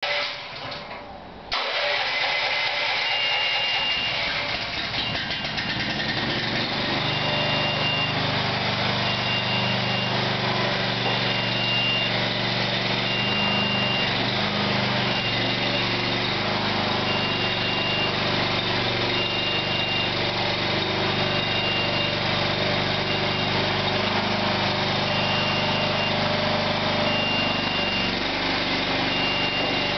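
Engine of a Hinowa tracked lift running steadily, coming in suddenly about a second and a half in, with a high warning beep repeating about once every second and a half, as a machine's travel alarm does while it moves.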